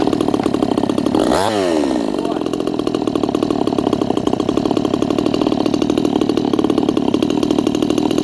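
Red Nut 58cc Chinese two-stroke chainsaw catching and running, with one quick blip of the throttle about a second and a half in, then running steadily until it cuts out abruptly at the end: the idle is set too low, so it stalls.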